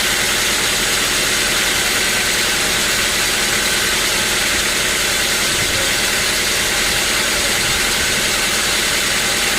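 Band sawmill running with a steady, unbroken machine noise.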